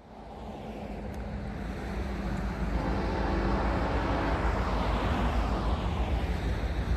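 Diesel freight locomotive passing: engine drone and low rail rumble that grow louder over the first few seconds, then hold steady.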